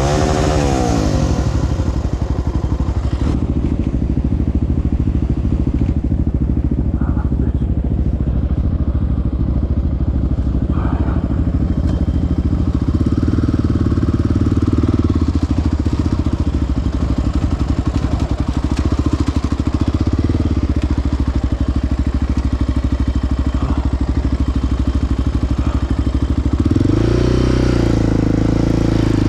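Single-cylinder four-stroke ATV engine running steadily along a trail, with a quick rev at the start and a rise in revs near the end.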